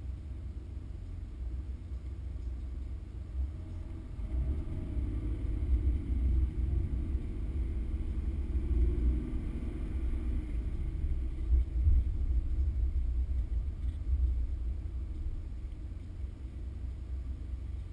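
Porsche 911 flat-six engine heard from inside the cabin at low speed, a deep rumble that grows louder as the car picks up speed about four seconds in, then eases off again near the end.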